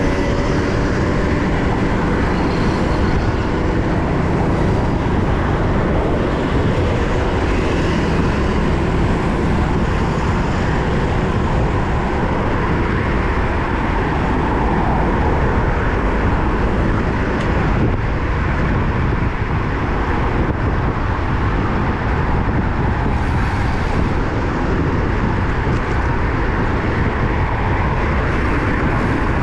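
Steady wind and road noise from riding a road bike at speed, a loud rumble on the camera's microphone.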